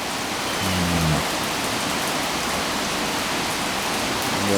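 Steady rain shower falling, an even hiss of rain.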